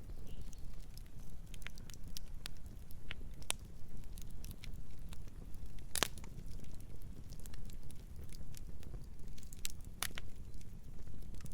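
Campfire burning: scattered sharp crackles and pops over a steady low rumble, with the loudest pop about halfway through and another strong one near the end.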